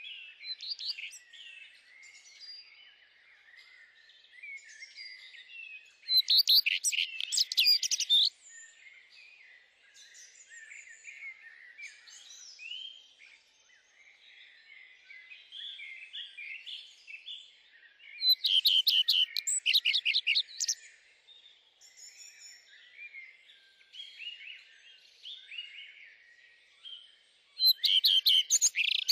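Songbirds singing: a steady chorus of small chirps and whistled notes, with one louder song of rapid trilled notes, about two seconds long, coming three times, about ten seconds apart.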